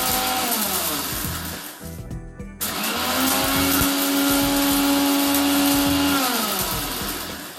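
Agaro Blitz 750W mixer grinder's motor running with a high whine, switched off and winding down about a second in, then started again, spinning up to a steady whine and winding down once more near the end.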